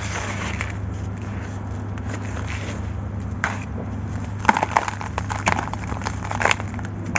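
Dry grey sand-cement chunks being crumbled and crushed, a gritty crunching with sharp cracks that come thicker in the second half.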